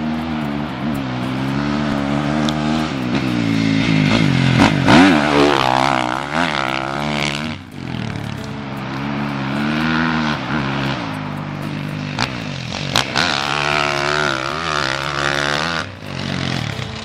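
Dirt bike engine revving up and down over and over, its pitch rising and falling, with a short dip near the middle. A couple of sharp cracks stand out about three quarters of the way through.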